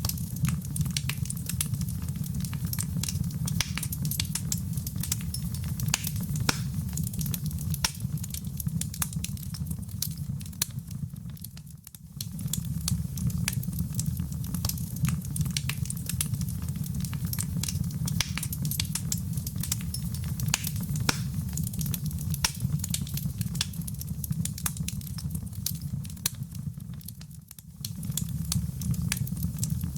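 Wood fire in a fireplace crackling, with irregular sharp pops over a steady low rumble of flame. Twice, near the middle and near the end, the sound dips for a moment and then comes back.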